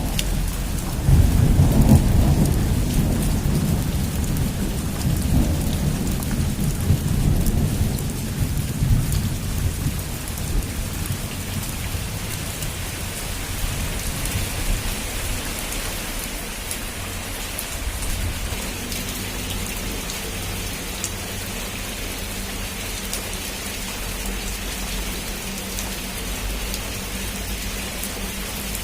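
Heavy rain falling steadily on a roof, with a long low rumble of thunder starting about a second in and dying away over the next several seconds.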